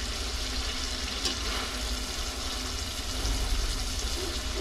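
Goat liver frying in oil in a pan: a steady sizzling hiss over a low rumble, with a single sharp click about a second in.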